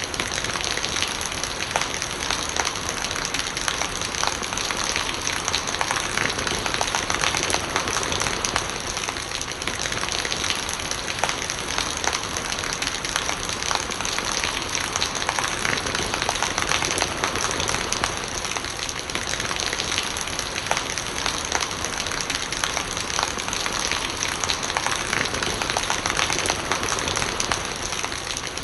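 Steady rain falling on hard surfaces: many small drop impacts over an even hiss, unchanging throughout.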